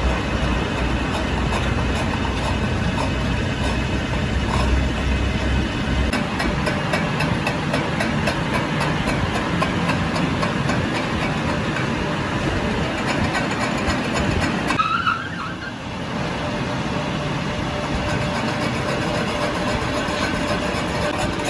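Steady mechanical running noise from a machine, with a short drop in level about fifteen seconds in.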